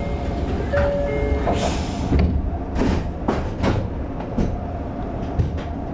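Toyo Rapid Railway 2000 series train standing at a station platform: a steady low hum, short electronic tones in the first second and a half, then several short sharp sounds from about two to four seconds in.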